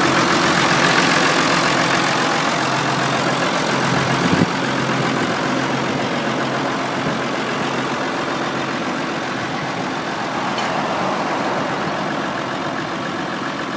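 Massey Ferguson 6290 tractor's diesel engine running steadily. About four seconds in it drops suddenly to a lower level, and it eases a little lower after that.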